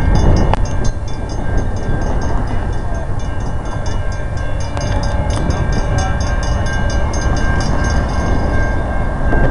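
CN freight train's diesel locomotives rumbling through a rail junction, a loud steady low rumble with a steady high tone and a quick, regular ticking running over it.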